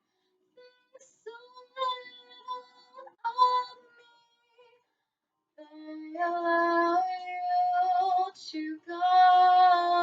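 A young student singing solo, unaccompanied: short phrases in the first half, then long held notes, with complete silence between phrases.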